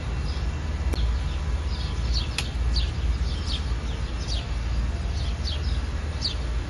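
Small birds chirping, a string of short falling notes repeating irregularly about once or twice a second, over a steady low rumble. A couple of sharp clicks early on.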